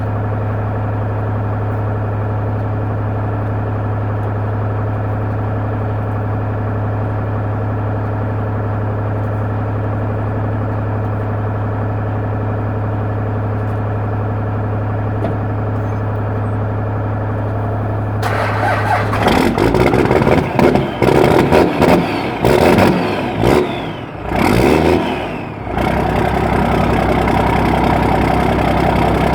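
A steady hum, then about eighteen seconds in a 1995 Dodge's 12-valve Cummins diesel cranks and fires on a cold start, running in loud, uneven surges for several seconds before settling into a steady idle.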